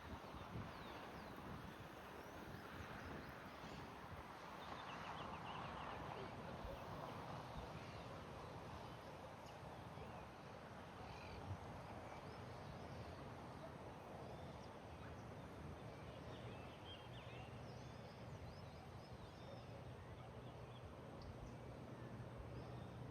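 Faint birdsong: scattered short chirps and whistles from several birds over a steady outdoor background hiss.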